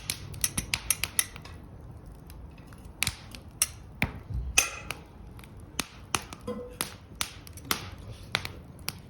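Dry firewood crackling and snapping: a string of irregular sharp cracks, some louder than others, over a low rumble.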